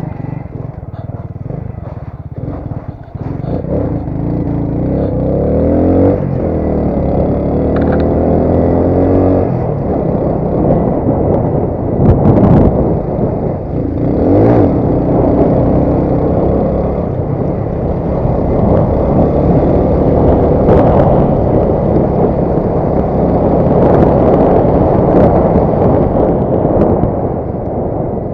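Alpha motorcycle's small single-cylinder four-stroke engine running as it is ridden, its pitch rising and falling repeatedly with throttle and gear changes. A short, loud clattery noise comes about twelve seconds in.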